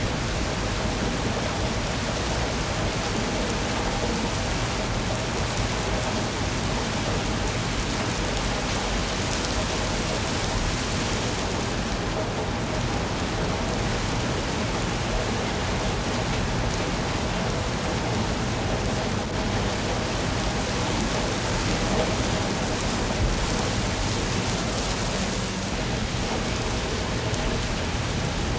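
Steady rain falling on a surface, a dense even patter of drops with no break.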